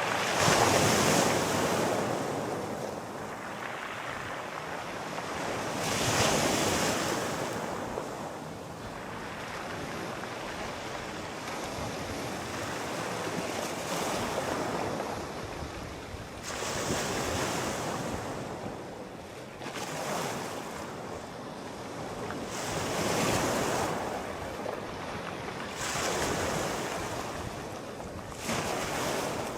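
Sea waves breaking and washing ashore, surging louder every few seconds and falling back in between.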